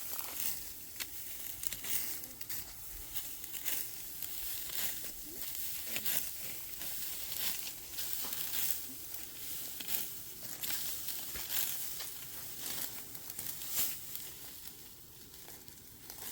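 Irregular dry crackling and rustling, many small crisp snaps in quick succession, like dry stalks or material being handled or crushed.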